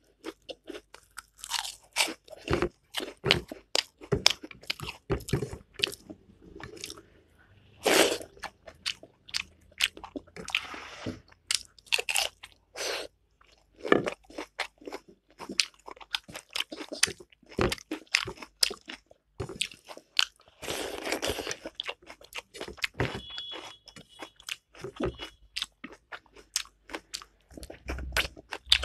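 A person chewing crunchy food: a dense, irregular run of sharp crunches and crackles with wetter chewing between bites.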